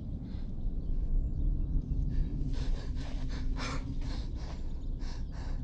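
A steady low rumble, with a run of short, soft rustling noises at about three a second starting about halfway through.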